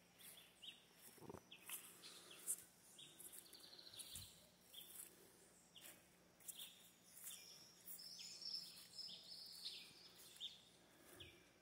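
Faint wild birds calling, a scatter of short high chirps and whistles, with a longer run of whistled notes about eight seconds in.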